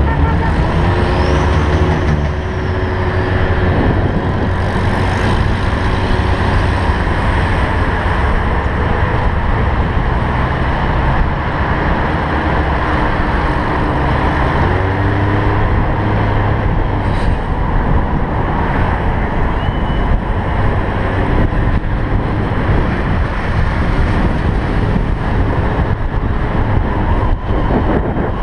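Old cars driving along a street, engines running with steady traffic noise; an engine's pitch rises near the start and again about halfway through as a car pulls away.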